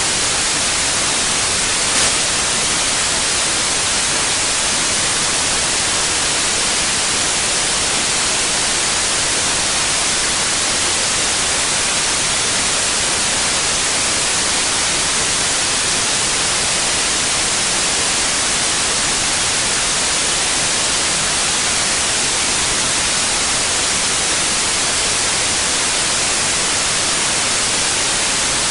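Steady white noise: an even, unbroken hiss, strongest in the high frequencies, with one faint click about two seconds in.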